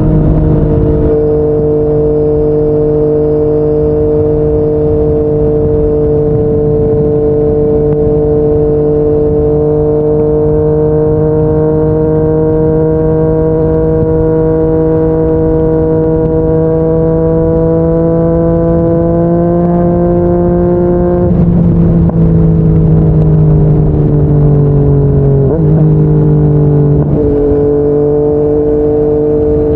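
Yamaha MT-09's inline-three engine through a Yoshimura R55 slip-on exhaust, cruising at speed. Its pitch climbs slowly for about twenty seconds, then drops and falls away as the throttle eases, before settling to a steady tone near the end.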